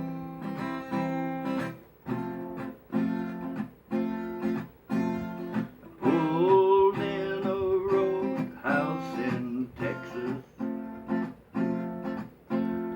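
Acoustic guitar strummed in a steady country rhythm, chords repeating stroke after stroke. A bending melody line comes in over the strumming about six seconds in and again near the end.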